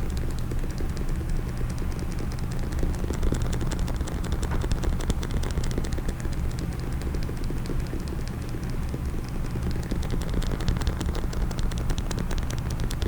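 Fast, dense tapping on a hard case held close to the microphone: a rapid stream of small clicks over a low rumble. The clicks thin out in the middle and pick up again near the end.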